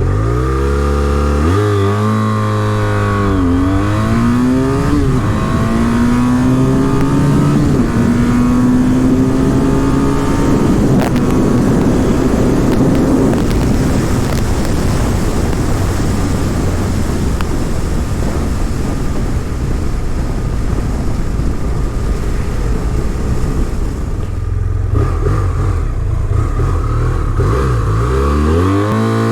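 BMW F800ST's parallel-twin engine pulls hard from a standstill through the gears. Its note rises quickly in the low gears, drops at each upshift, and climbs more slowly in the higher gears. Mid-way, rushing wind at high speed covers the engine; near the end the engine drops back to low revs with a few short blips.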